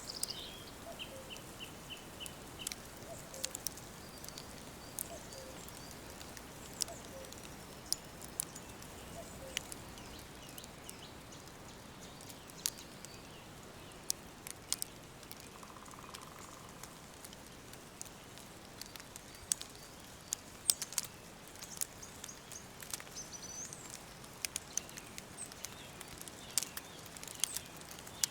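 Woodland ambience: birds chirping and calling now and then over a steady soft hiss, with frequent sharp clicks and crackles throughout.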